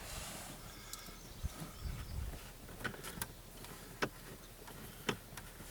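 Scattered light clicks and knocks of plastic dash parts as a car's headlight switch is wiggled and worked into its tight mounting spot under the dash, about five separate clicks, the sharpest about four seconds in.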